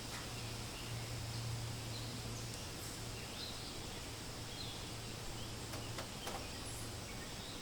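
Forest ambience: a steady hiss of wind through leaves with scattered short, high bird chirps, and two faint clicks about six seconds in.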